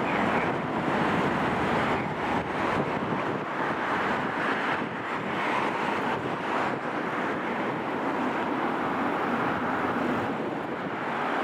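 Boeing 757-200 in its climb after takeoff: a steady rush of engine and airflow noise.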